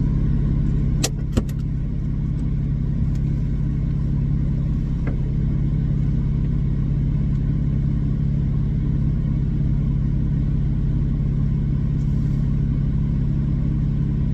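Muffler-deleted Porsche Cayman S flat-six engine idling steadily, a deep even drone that holds one pitch throughout; a couple of brief clicks about a second in.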